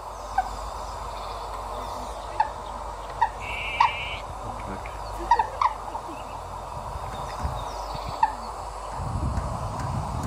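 Short, sharp bird calls, about eight of them spread unevenly, with one higher held note just before four seconds in. A low rumble comes in near the end.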